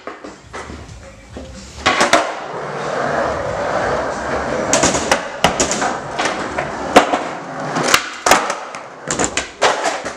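Skateboard rolling across a basement floor, a steady wheel hiss, with sharp wooden clacks of the tail popping and the board slapping down, several in the second half.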